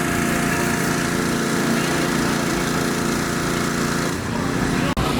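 A vehicle engine running steadily, with an even rumble that turns rougher about four seconds in. A brief dropout comes near the end.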